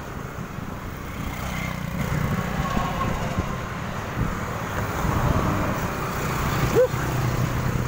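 Road traffic noise with a low rumble of wind, and a brief rising chirp about seven seconds in.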